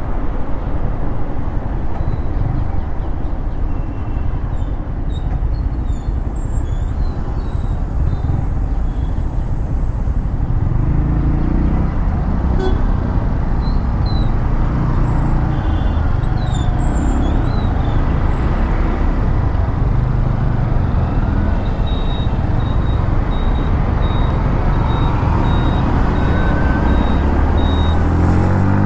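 Yamaha MT-15's single-cylinder engine running while riding through city traffic, with other vehicles' horns tooting now and then and a string of short high beeps for several seconds in the second half. Near the end the engine revs up with a rising pitch.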